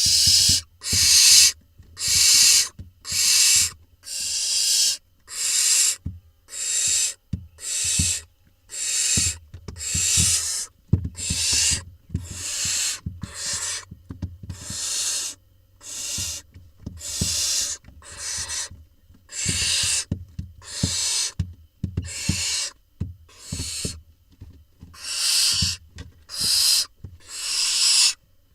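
Barn owl nestlings giving their rasping, hiss-like begging calls (the 'snore'), one harsh breathy burst about every second, with light knocks and scuffles from the nest box floor underneath.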